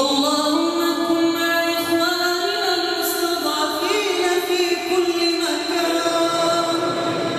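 A single voice reciting the Quran in the melodic tajweed style, drawing out one long, ornamented note with small turns in pitch.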